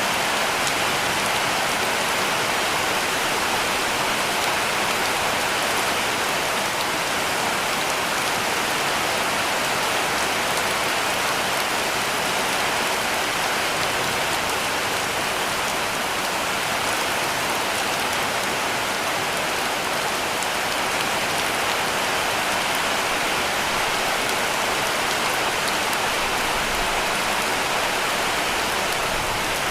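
Heavy rain falling on a cabin roof, a steady, even hiss that keeps up without a break.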